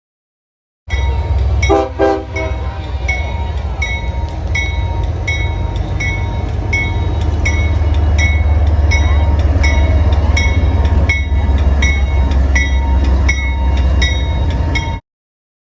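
A train passing on the main line, with a short horn blast about two seconds in over a steady low rumble. A level-crossing bell dings about twice a second throughout.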